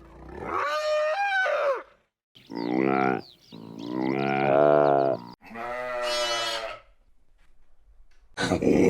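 An animal calling: four drawn-out pitched calls in a row separated by short gaps, the first wavering and gliding in pitch. A rougher, noisier animal sound begins near the end.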